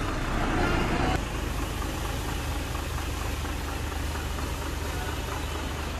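A vehicle engine running with a steady low hum, with a louder rush of noise over it that cuts off about a second in.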